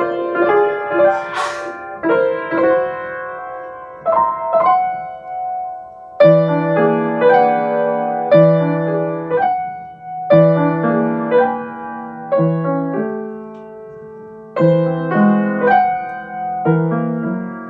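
Piano playing a quiet impressionistic piece. Light, higher-pitched figures come first; from about six seconds in, fuller chords with low bass notes are struck about every two seconds, each left to ring and fade before the next.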